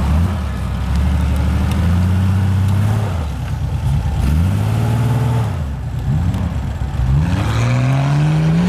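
Off-road 4x4's engine revved hard again and again: the pitch climbs and holds, drops around three seconds in, climbs again around four to five seconds, then rises once more near the end.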